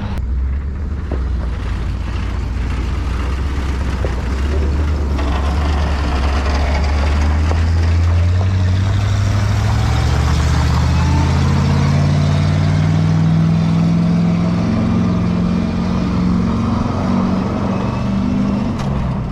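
Truck engine accelerating under load, its pitch climbing steadily for about ten seconds before easing near the end, as one truck moves a cold diesel truck with failing glow plugs to turn its engine over.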